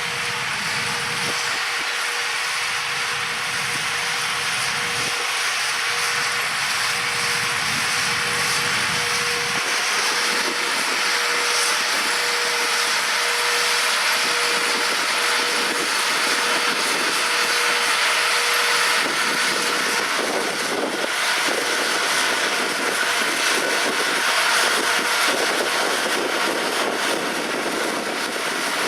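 Tractors and pull-type peanut combines running steadily in the field, with a thin steady whine that fades out about two-thirds of the way through.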